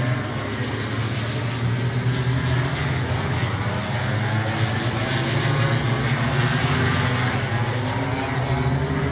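MotoGP 1000 cc race bikes' engines running on the circuit: a continuous drone whose pitch wavers up and down as the bikes rev and pass.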